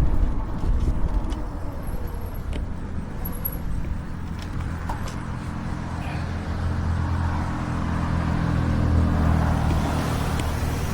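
Road traffic: a car's engine and tyres heard going by, growing louder over the last few seconds.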